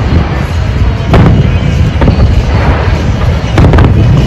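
Fireworks show, shells bursting in quick succession into a continuous heavy rumble of booms, with sharper bangs about a second in and near the end.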